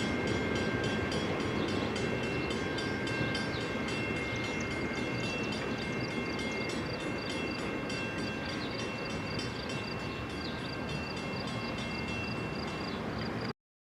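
Freight train cars rolling by on the rails: a steady rumble with a few thin high tones held through it, slowly easing, then cutting off abruptly near the end.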